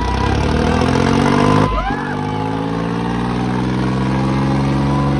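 Diesel tractor engine working hard, climbing in pitch over the first couple of seconds and then holding a steady high speed. A brief rising-and-falling tone sounds about two seconds in.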